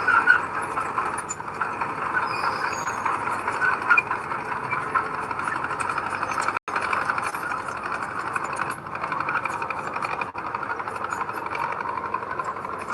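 Heavy earthmoving machinery running steadily, a diesel engine working with rattling clatter. The sound cuts out for an instant about halfway through.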